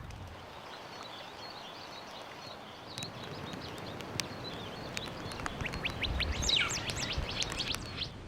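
Small birds chirping over a steady outdoor hiss, with a thin, repeated high note throughout. About six seconds in comes a burst of quick, sharp calls, each sweeping down in pitch.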